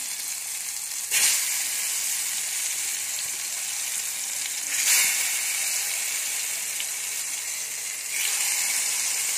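Eggplant slices frying in hot mustard oil: a steady sizzle that swells suddenly three times, about a second in, near the middle and near the end, as more slices go into the pan.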